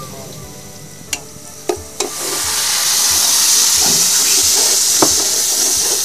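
Sliced onions frying in hot oil in an aluminium pot, stirred with a metal ladle that knocks sharply on the pot three times. About two seconds in, a loud sizzle breaks out as a wet mixture goes into the hot oil, and the stirring goes on.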